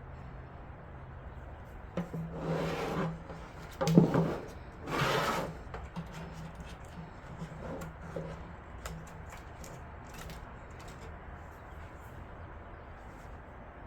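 Computer parts being handled during assembly: two scraping, rubbing passes with a sharp knock between them about four seconds in, then a few light ticks.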